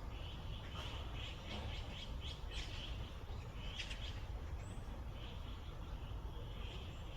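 Wild birds chirping: many short, quick calls, thickest in the first half with a burst about four seconds in, over a steady low rumble.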